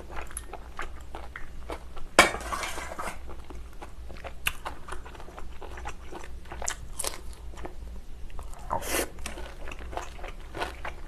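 Close-miked chewing and biting of shellfish meat from a spicy seafood stew: many short sharp mouth clicks, with one louder burst of noise about two seconds in.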